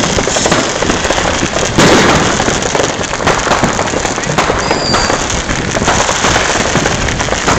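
New Year's fireworks: a dense, continuous crackle and banging of many consumer rockets and firecrackers going off together, with a louder burst about two seconds in.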